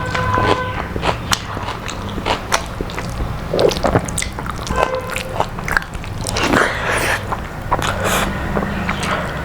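A person chewing and biting into crisp fried food close to the microphone, with irregular crunches and mouth sounds.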